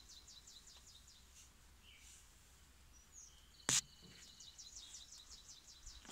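Faint outdoor ambience with a bird's rapid chirping trill, heard twice as a quick run of high ticks. A little past halfway comes a single sharp knock, the phone bumping a metal tube of the drill's frame.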